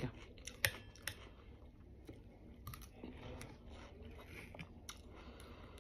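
Faint chewing of watermelon, with a few sharp clicks scattered through.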